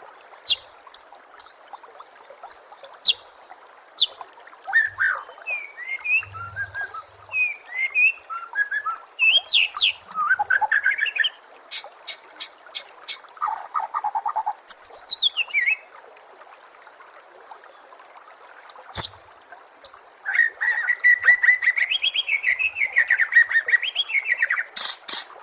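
White-rumped shama (murai batu) singing a varied song of short whistled phrases, sharp clicks and rising and falling notes, with a fast rattling trill near the end. It sings over a steady background of trickling water.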